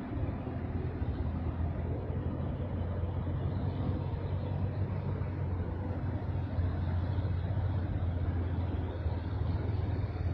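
Bedford truck engine running steadily: a continuous low drone with no change in pitch.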